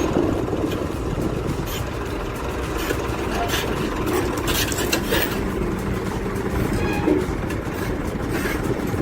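Heavy diesel machinery running steadily, with several sharp clanks and knocks now and then.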